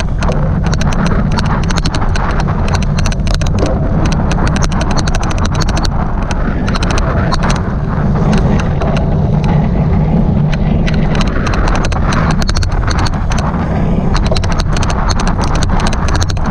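Rapid, irregular clicking, an odd clicking noise on the recording of a cyclocross race, over a loud, steady low rumble.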